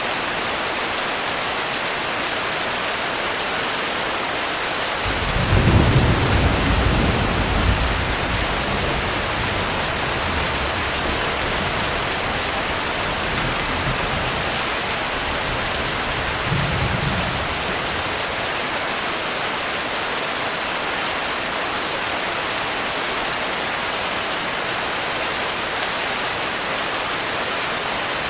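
Steady heavy rain, with a roll of thunder starting about five seconds in that fades over several seconds, and a second, softer rumble of thunder near the middle.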